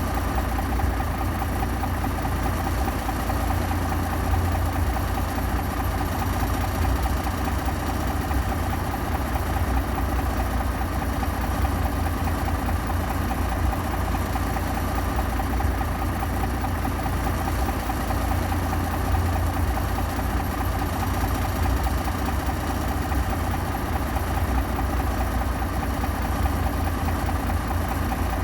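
Bulldozer's diesel engine running steadily at a constant low note, with no revving or changes in load.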